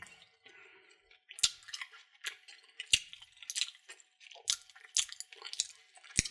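Candy and its plastic packaging being handled: irregular small clicks and crinkles, about a dozen of them, with no steady sound between.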